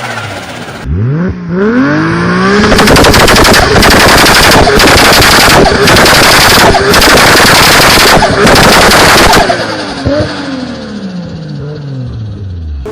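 Turbocharged car with an anti-lag system accelerating hard: the engine revs climb, then for about seven seconds the exhaust fires a rapid string of pops and bangs, broken by a few short gaps, before the revs fall away near the end.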